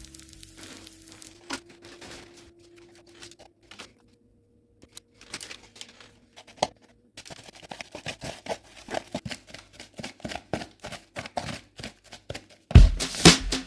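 Dry crackling and tearing: a faint scatter of clicks at first, then a dense run of rapid, irregular clicks and crackles in the second half, as material on the chair is worked or torn by hand. Music comes in loudly near the end.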